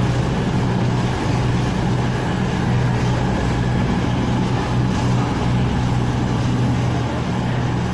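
Class 220 Voyager diesel multiple unit's underfloor diesel engines running with a steady low hum as the train pulls out of the platform.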